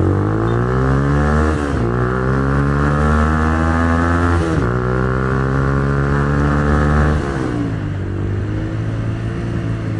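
Single-cylinder 150 cc SOHC engine of a Minerva R150 VX motorcycle accelerating hard from first gear: the revs climb, drop at an upshift about 1.7 s in, climb again, drop at a second shift about 4.5 s in, climb once more and then fall back to a lower steady note near 7.5 s as the throttle eases. First gear runs out very quickly, which the rider finds too short.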